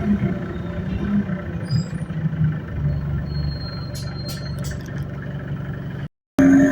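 Inside an ADL Enviro200 bus on the move: the engine and drivetrain rumble steadily, with a tonal whine in the low hum that shifts in pitch as the bus goes. A thin high whine comes in about three seconds in, and a few rattling clicks follow; the sound cuts out briefly near the end.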